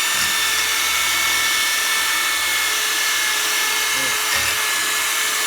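Steady whir of a small electric motor with a high hiss, running without a break.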